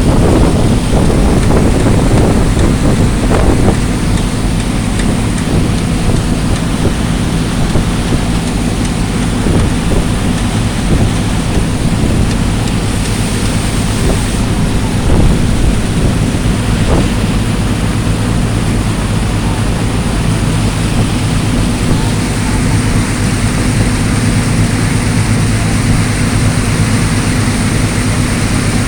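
A boat's engine running steadily underway, with wind buffeting the microphone.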